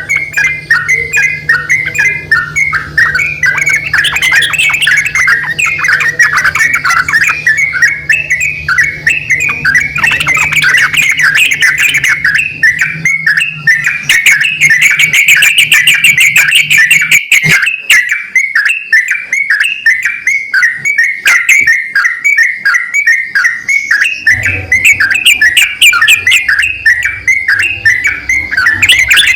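Yellow-vented bulbuls (trucukan), a male and a female, calling back and forth in a continuous run of rapid, loud chattering notes.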